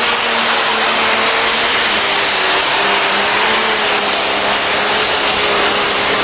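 Competition pulling vehicle's engine running loud and flat out, holding a steady pitch without letting up.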